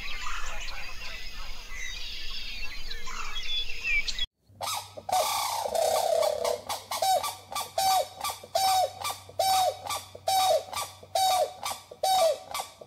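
Several birds chirping and singing together. After an abrupt cut about four seconds in comes a single animal's loud, short call, repeated about twice a second.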